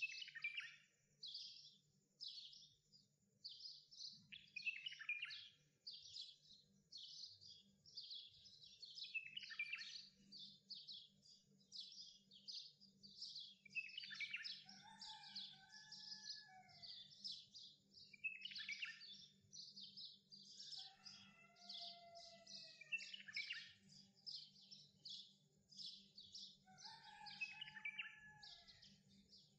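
Birds chirping faintly, a quick unbroken run of short high chirps, with a lower whistled note that bends up and down coming in about every six seconds.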